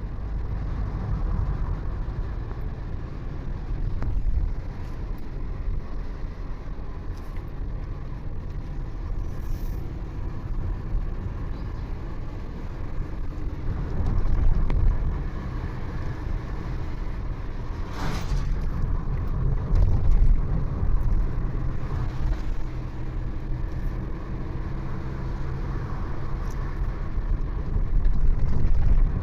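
Steady engine hum and road noise from a vehicle driving along, with a brief louder rush about eighteen seconds in.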